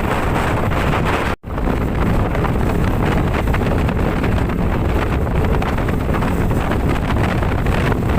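Strong wind buffeting the microphone aboard a boat in rough seas, a dense steady rumble heavy in the low end. The sound drops out for an instant about a second and a half in.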